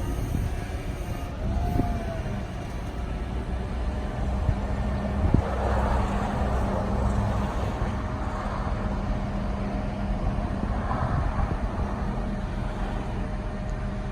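GMC C7500 bucket truck's engine running steadily to drive the boom hydraulics, with a thin steady whine over the engine drone and a single sharp click about five seconds in; the hydraulics are running smoothly.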